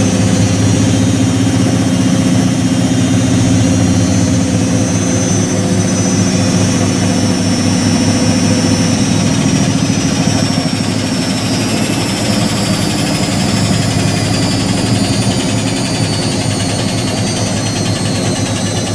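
Whirlpool AWG023 top-loading washing machine running, with a steady low drone and a high motor whine that slowly falls in pitch.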